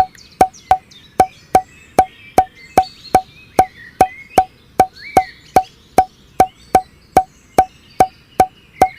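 A steady run of sharp, hollow clicks, about two and a half a second, with faint chirping behind.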